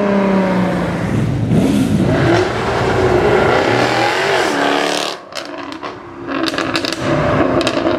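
Sports car engines revving and accelerating hard, their pitch climbing and falling. The sound drops away briefly about five seconds in, then returns with a run of sharp exhaust pops and crackles near the end.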